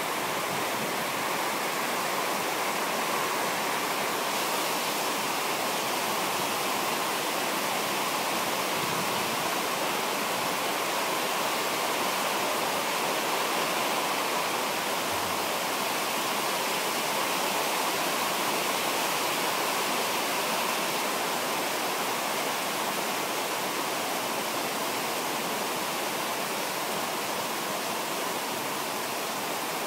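Heavy rain pouring down in a steady downpour, an even, unbroken hiss of falling water.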